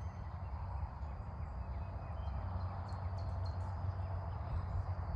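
Outdoor ambience dominated by a steady low rumble of wind on the microphone, with a thin steady high insect tone and a few short high chirps about three seconds in.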